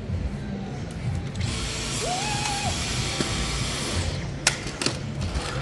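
A small appliance's electric motor runs with an even whirring hiss for about two and a half seconds, then cuts off; two sharp clicks follow about a second later.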